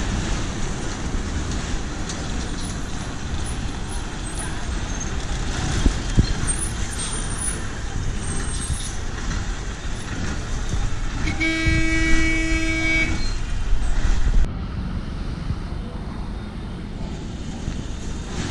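Steady vehicle and traffic noise with some voices, and one vehicle horn sounding a steady blast of about two seconds a little past the middle. Soon after the horn, the hiss in the noise drops away abruptly.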